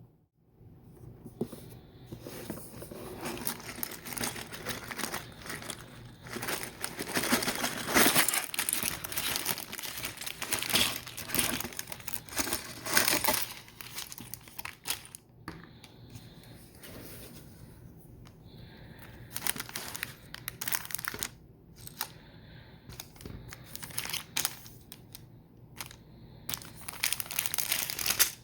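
Plastic packaging crinkling and tearing, as bags of LEGO pieces are handled and opened. It is dense and continuous for the first half, then comes in short scattered bursts.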